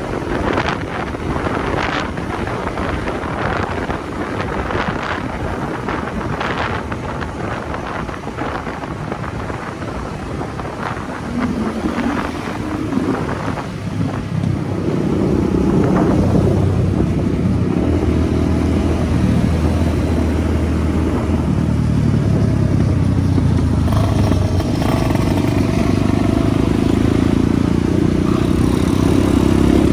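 Motorcycle being ridden, its engine running under gusty wind rush for the first half. About halfway through the engine note becomes louder and steady.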